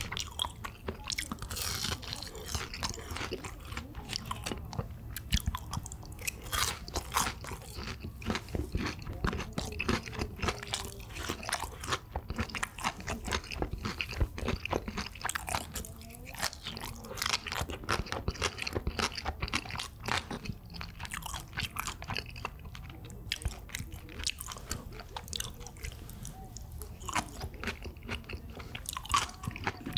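Close-miked chewing with many irregular crunches, a mouthful of crispy fried sweet and sour pork (chapssal tangsuyuk) being bitten and chewed.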